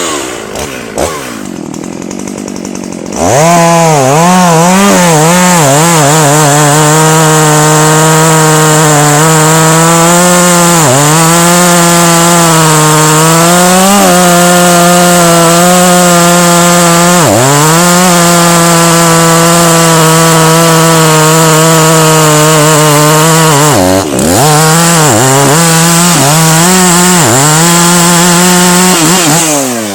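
Two-stroke chainsaw opening up to full throttle about three seconds in and cutting into wood. The engine note dips briefly several times, more often near the end, as the chain bogs under load in the cut.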